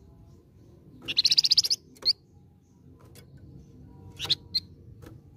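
Flamboyan songbird calling: a loud, rapid high trill lasting under a second about a second in, then a single sharp chirp, and two more short chirps near the four-second mark.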